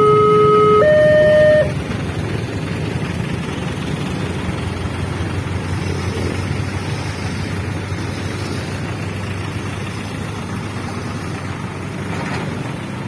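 Railway level-crossing warning alarm sounding two alternating tones, which stop about a second and a half in. A steady rumble of engines and traffic follows.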